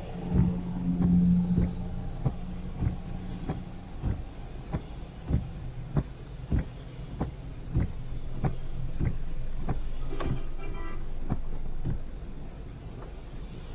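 Car driving on a highway: a steady engine and road hum, with a regular knock or click about every two-thirds of a second. About ten seconds in there is a short, higher tone.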